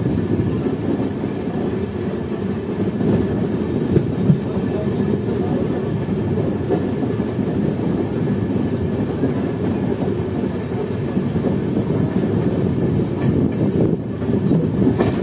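Running noise of an express train heard on board a moving coach: a steady rumble of wheels on rails, with a few sharper clacks, one about four seconds in and several near the end.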